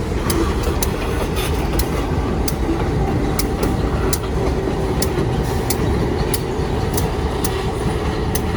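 A passing train: a steady, loud rumble with sharp clicks about twice a second, typical of rail wheels running over track joints.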